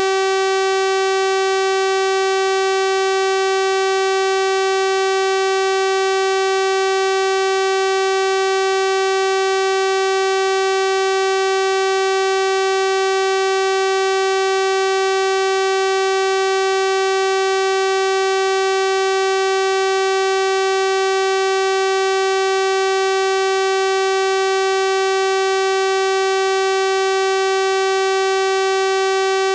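Synthesized 384 Hz sawtooth-wave tone, held steady and unchanging: a bright, buzzy electronic test tone with a full set of overtones.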